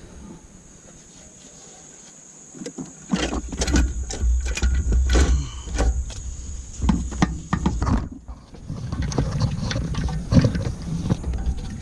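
Metal knocks and clanks from engine parts being handled and worked loose during a cylinder-head removal, over a low rumble, all starting about three seconds in.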